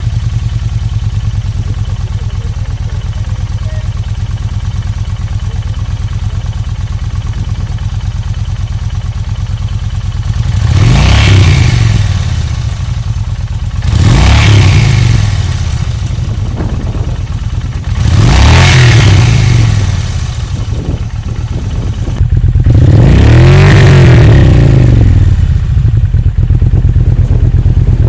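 Kawasaki VN 1500 Vulcan V-twin idling through aftermarket silencers with a steady, loud beat, then blipped four times. Each rev rises and falls back to idle, and the last one, near the end, is held longest.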